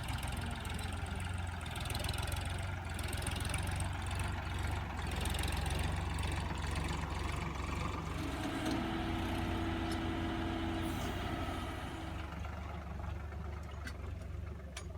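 Tractor diesel engine running steadily, with a higher steady whine joining for a couple of seconds around the middle.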